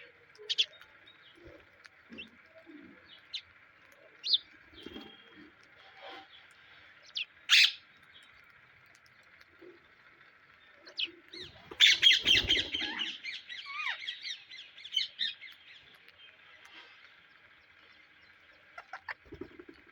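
Psittacula parakeets calling: scattered short chirps and screeches, then about twelve seconds in a loud burst of rapid, harsh squawking that lasts a couple of seconds and tails off. A faint steady hiss runs underneath.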